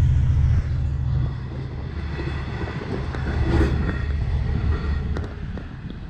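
Passenger train passing over a road crossing: a steady rumble of wheels on rails, heard from a car waiting at the crossing, with a few sharp clicks near the end.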